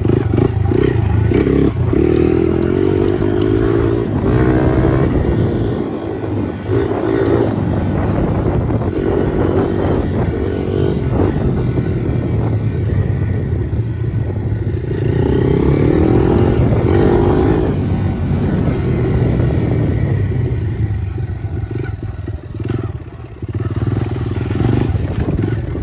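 Honda CRF100 dirt bike's single-cylinder four-stroke engine running while being ridden, its revs rising and falling repeatedly as it accelerates and eases off.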